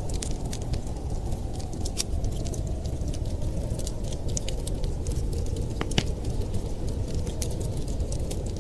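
Wood fire crackling: scattered small sharp pops over a steady low rushing noise, with one louder pop about six seconds in.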